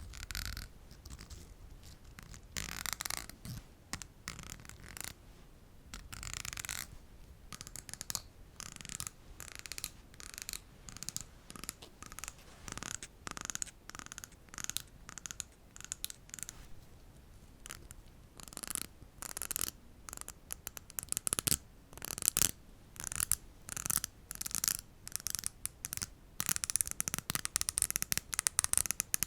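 ASMR tapping and scratching on objects: irregular soft taps and scrapes that come faster and louder from about two-thirds of the way through.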